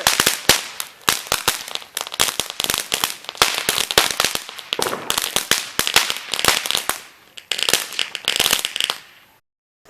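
Fireworks crackling: a rapid, uneven run of many sharp cracks and pops for about nine seconds, cutting off suddenly near the end.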